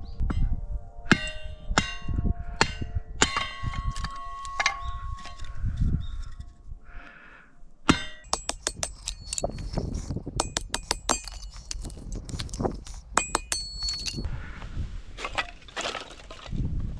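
Metal objects clinking and clanging: repeated knocks, each with a short ringing tone, then a quick run of light high clinks in the second half.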